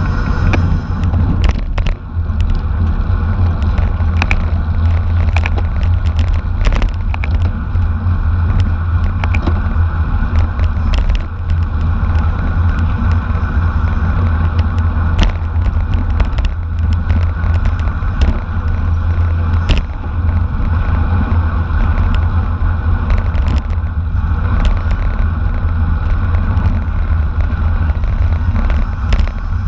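Racing bicycle at speed: a steady rush of wind on the microphone over tyre and drivetrain noise, with scattered sharp clicks and knocks from the bike and road.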